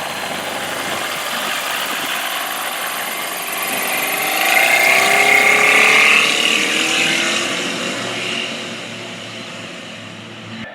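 Rotax 912 flat-four aircraft engine running. The sound swells to its loudest about halfway through, with the pitch shifting, then eases off.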